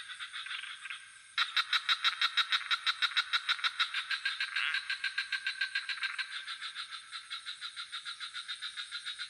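Night chorus of frogs calling in fast, even pulsed trills, about nine or ten pulses a second, over a steady high-pitched insect trill. The pulsing turns abruptly louder a little over a second in.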